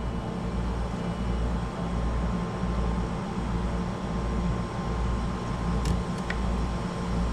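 Steady low mechanical hum with a faint high steady tone running through it, and two small clicks about six seconds in.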